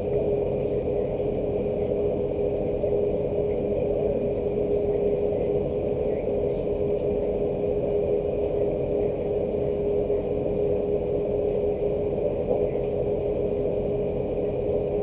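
A steady low machine hum with one constant droning tone, unchanging throughout. Faint scattered ticks of rain drops can be heard over it.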